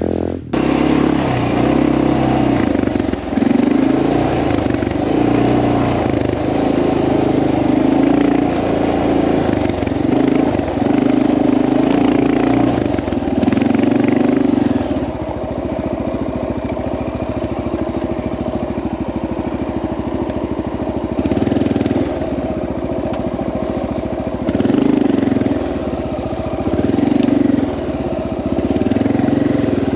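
Honda XR650L's single-cylinder four-stroke engine running while riding, its sound swelling and easing off every few seconds.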